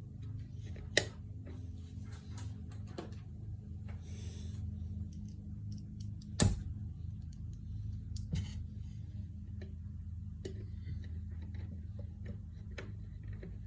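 Scattered light clicks and taps over a steady low hum, with a sharp knock about a second in and a louder one about six and a half seconds in.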